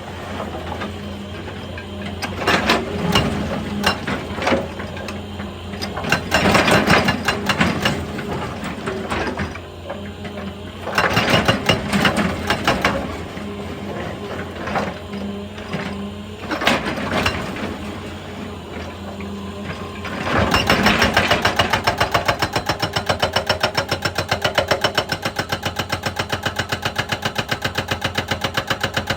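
Excavator's diesel engine running while a hydraulic breaker hammers rock, with irregular loud bursts of hammering and crunching. About two-thirds of the way through, it settles into a steady, rapid hammering of many blows a second.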